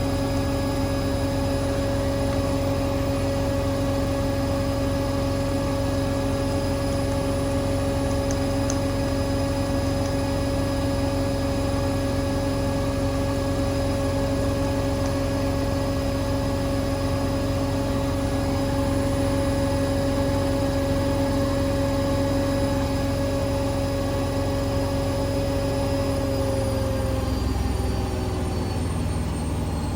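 Hoover Link washing machine on its 1400 rpm final spin, a steady whine with a low hum beneath. Near the end the drum begins to slow down from top speed and the pitch falls away.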